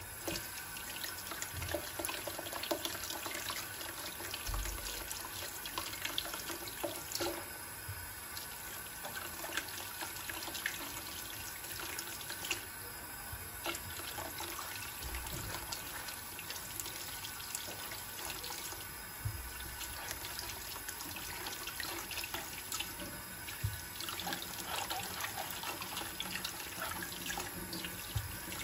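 Water running steadily from a kitchen tap into the sink, with scattered light knocks and clatters.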